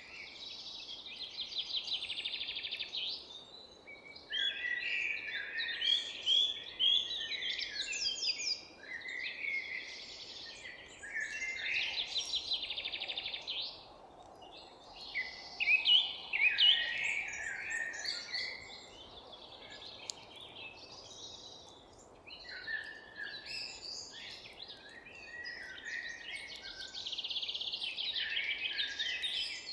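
Several songbirds singing and chirping at once, overlapping trills and rapid repeated notes with short pauses between phrases, over a faint steady background hiss.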